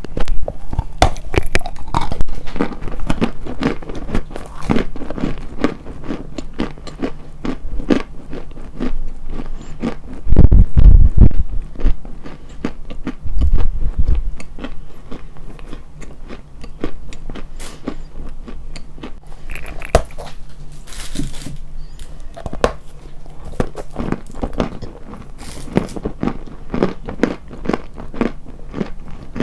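Close-miked biting and crunching: a dense run of crisp cracks as something hard and brittle is chewed, with two louder low thuds about ten and thirteen seconds in.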